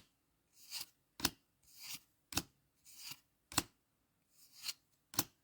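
A foil trading-card booster pack being handled and opened by hand: five sharp snips about a second apart, each following a soft rustle of the wrapper.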